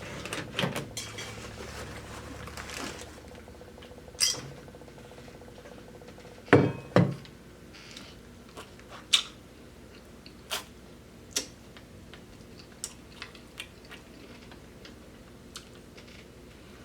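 Close-miked eating of fried chicken livers and gizzards: chewing and crunching, with scattered short clicks and taps of cutlery or food containers, the loudest two about six and a half seconds in.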